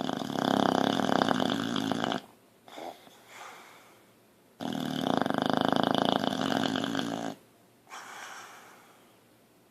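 Boxer dog snoring in deep sleep: two long, loud snores, the second starting a couple of seconds after the first ends, each followed by a quieter, shorter breath.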